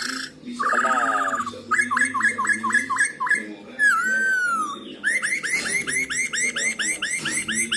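Black-throated laughingthrush singing: a short buzzy call, then a string of clear whistled notes about three a second, one long swooping whistle about four seconds in, and a fast run of rising notes, about five a second, to finish.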